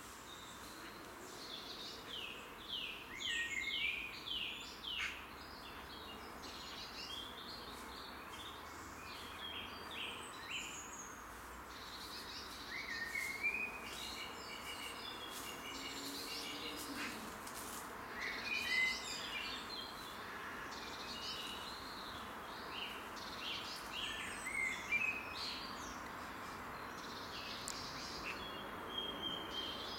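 Songbirds singing in the trees, phrase after phrase of chirps and quick trills, over a steady background hiss.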